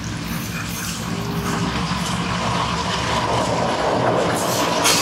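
A diesel-electric locomotive hauling a KAI passenger train approaches over a steel girder bridge. The engine runs and the wheels rumble on the rails, getting steadily louder as it nears.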